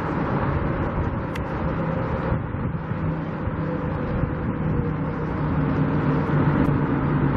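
Steady road traffic noise, engines running and tyres on the road, growing a little louder near the end.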